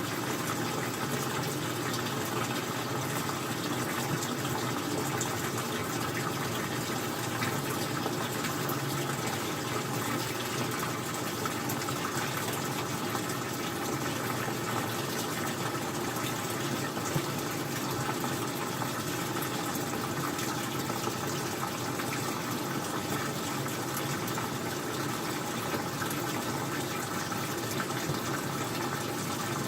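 Old-style front-loading washing machine running, with water rushing steadily through it. The noise is even throughout, with a faint steady hum.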